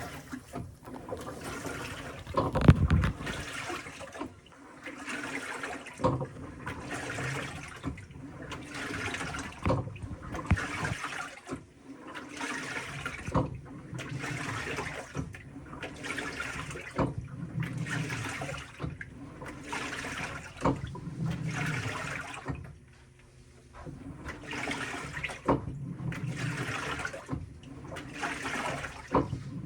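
Panasonic top-loading washing machine in its tub-cleaning cycle: water sloshing and swishing in the tub as the agitator turns it back and forth, one swish about every second, with a short lull about two-thirds of the way through.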